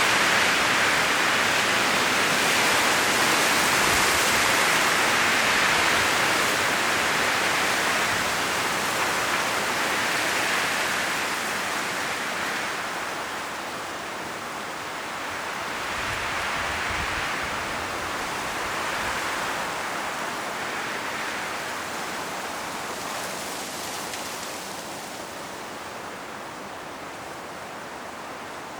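High wind blowing through a forest and rustling the trees' autumn leaves in gusts: loud at first, easing off in the second half with a couple of smaller swells.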